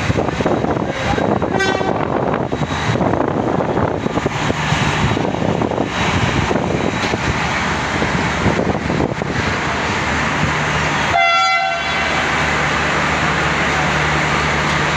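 Pakistan Railways passenger coaches rolling slowly past the platform, a continuous rumble and clatter of wheels on rail. A train horn toots briefly near the start and again, louder, for about half a second after about eleven seconds.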